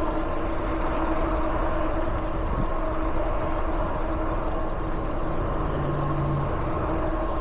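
Steady noise of road traffic with a constant hum, heard while riding an e-bike beside a freeway; a short low tone comes in about six seconds in.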